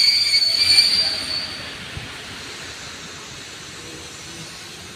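Metallic wheel squeal from passenger coaches rolling slowly along a station platform, a piercing ring of several high tones. It dies away about a second and a half in, leaving a quieter rumble of the moving train.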